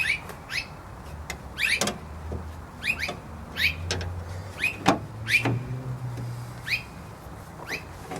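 A small bird chirping over and over, each chirp a quick falling note, with a few sharp metallic clicks as bolts are started by hand in a car door.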